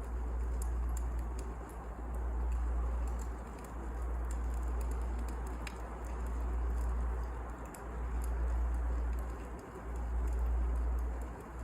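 Wood fire burning: a low rumble that swells and eases about every two seconds, with scattered small crackles and pops.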